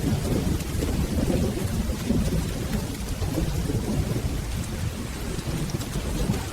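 Steady rain falling over a low, rolling rumble of thunder that swells and eases without a distinct clap.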